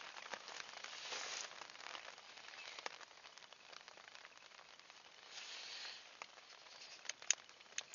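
Rain pattering on the canvas of a Polish army lavvu shelter, heard from inside: a faint steady hiss with scattered ticks of drops.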